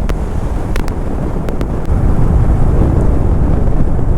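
Wind rushing over the microphone of a moving motorcycle, with engine and road noise underneath; it gets louder about two seconds in.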